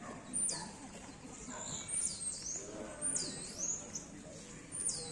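A songbird singing from the trees: about four high whistled phrases, one every second or two, each note sweeping steeply down in pitch and then rising again.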